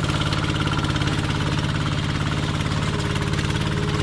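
Homemade tractor's engine running steadily with a rapid, even beat.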